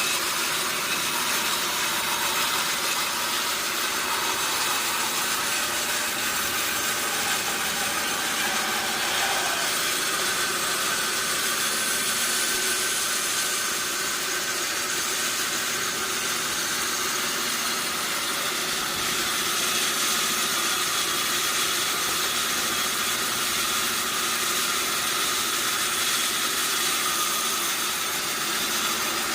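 Large log sawmill running: a steady, even machine noise from its motor and saw, with no pauses or sudden changes.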